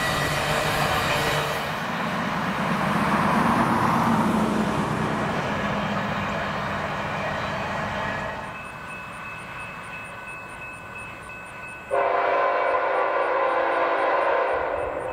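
Norfolk Southern freight train running past at speed, its rumble dying away over the first eight seconds. About twelve seconds in, a diesel locomotive's air horn sounds abruptly, a chord of several notes held for about three seconds.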